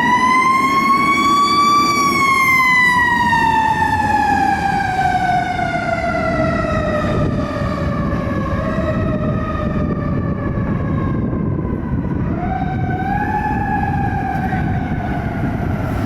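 Fire engine's Federal Q2B mechanical siren: its wail peaks about two seconds in and then slowly winds down in pitch, and it is spun back up about twelve seconds in before easing off again. The truck's engine and road noise run underneath.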